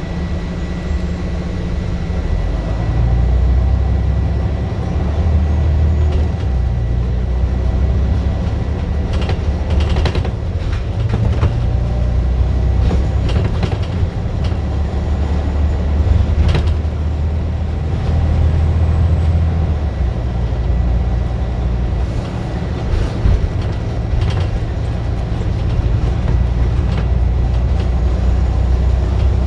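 Scania bus engine being worked hard, its low note swelling and easing every few seconds as the bus pulls away and accelerates. A thin steady high whine runs under it, with a few sharp rattles and knocks around ten and sixteen seconds in.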